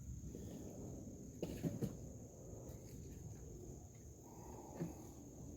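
Crickets trilling steadily in the background, with a couple of light knocks about a second and a half in and a faint click near the end.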